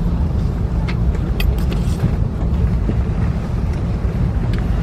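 Steady low rumble inside the cabin of an Airbus A330-300, its engines still running at idle as it arrives at the stand, with a couple of light clicks about a second in.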